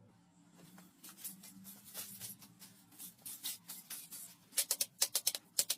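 Scratchy rubbing and scraping strokes, irregular at first, then a quicker run of sharper, louder scrapes near the end.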